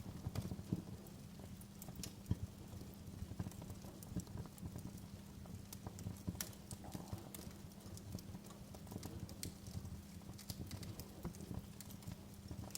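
Wood fire in a fireplace crackling: irregular sharp pops and snaps of varying loudness over a low steady rumble.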